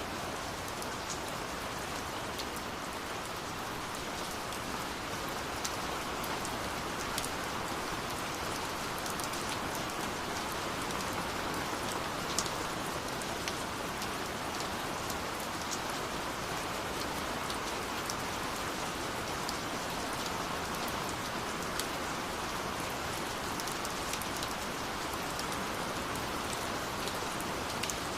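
Steady rush of a waterfall with scattered sharp crackles of a wood fire, a pop every second or two, one louder about twelve seconds in.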